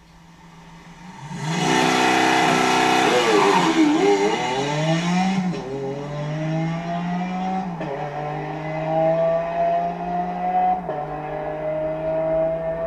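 Lamborghini Aventador LP 750-4 Superveloce's V12 held at steady revs, then launched at full throttle about a second in and accelerating hard through the gears. The engine pitch climbs in each gear and drops sharply at each upshift, about four shifts a few seconds apart.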